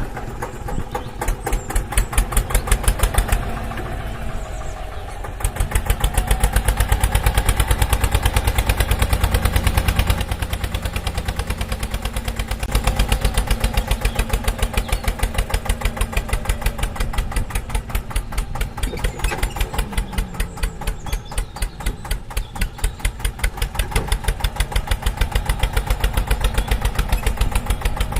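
Tractor engine chugging in a fast, even beat, getting louder and softer in stretches.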